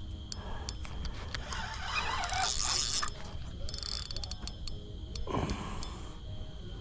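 Fishing reel clicking and ratcheting in irregular bursts while a large blue catfish is fought on the line, with a short noisy rush about two seconds in.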